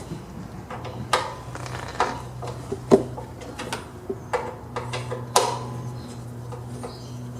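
Hand tools clinking against metal as the small bolt holding the belt keeper on the mower-deck pulley is worked loose: separate sharp clicks about once a second, a few louder ones, over a steady low hum.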